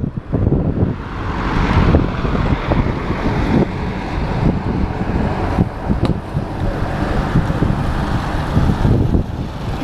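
Wind buffeting the microphone in heavy, uneven gusts, with a steady rushing hiss from about a second in until near the end.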